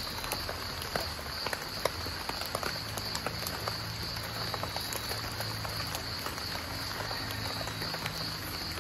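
Night forest ambience: a steady high insect chirring with many small, scattered ticks and pops, and a low hum that comes in about two and a half seconds in.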